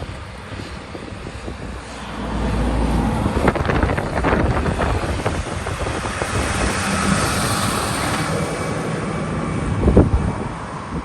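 Tractor engine passing by, growing louder about two seconds in and dropping away just before the end.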